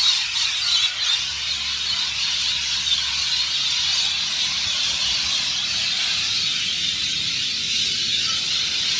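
Dense chorus of a large roosting flock of birds screeching and chattering without pause as they settle in the trees at sunset.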